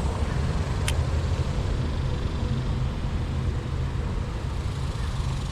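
Steady low rumble of road traffic, with one short sharp click about a second in.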